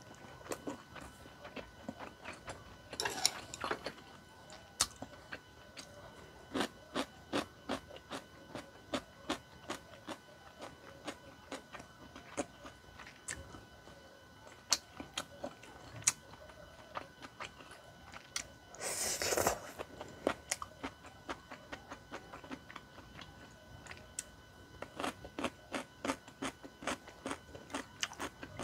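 Close-miked chewing of chewy tteokbokki rice cakes and fish cakes, with many short wet mouth clicks and smacks. There is a longer, louder noise about three seconds in and again about nineteen seconds in.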